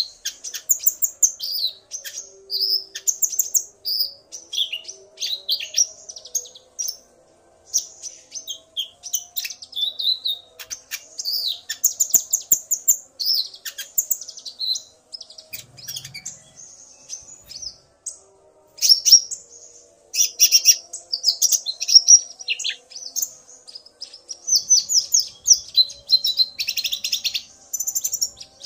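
Konin (kolibri ninja) sunbirds singing: rapid, high twittering chirps and trills in dense bursts with brief pauses. A male calls excitedly in answer to a female's calls.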